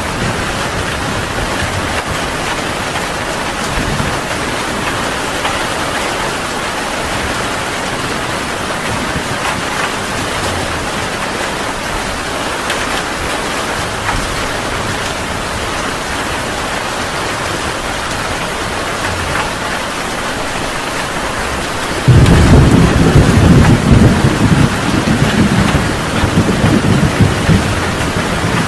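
Heavy rain pouring steadily with an even hiss. Near the end a loud, low rumble of thunder starts suddenly and rolls on.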